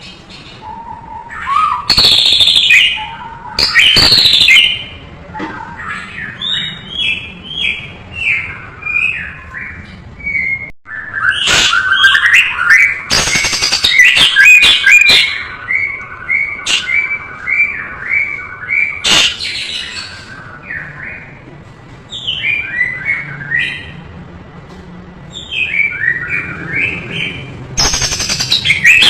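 White-rumped shama (murai batu) singing a long, varied song: loud sweeping whistles every few seconds, between runs of fast, short repeated chirps.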